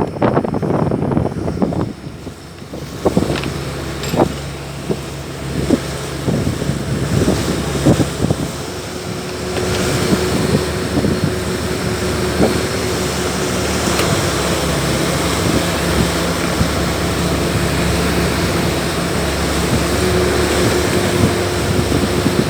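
Motorboat engine running steadily, with wind buffeting the microphone at first and a few knocks in the first several seconds.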